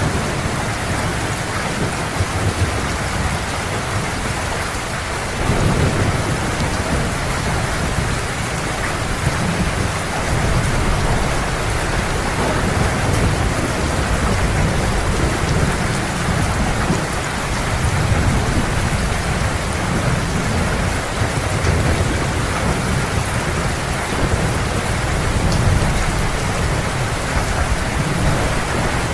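Heavy rain falling steadily, with low thunder rumbling underneath that swells repeatedly, most markedly about five seconds in.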